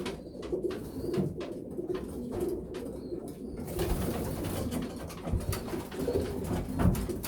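Racing pigeons cooing, low coos repeating throughout, with scattered clicks and rustling.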